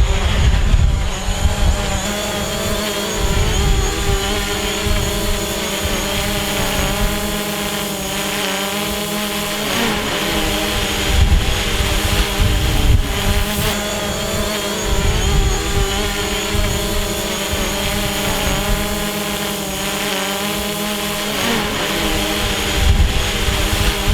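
DJI Mavic Pro quadcopter's propellers whining, the pitch wavering and dipping as the motors work against strong wind, with wind gusting on the microphone.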